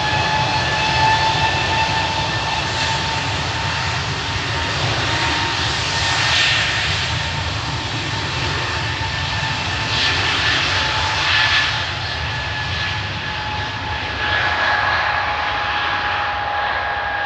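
EasyJet jet airliner's engines at takeoff power during its takeoff run: a loud, steady high whine over a heavy rumble.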